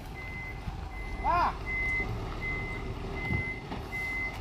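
A truck's reversing alarm beeping steadily, about two beeps a second, over the low running of its engine. A brief high rising-and-falling cry sounds about a second in.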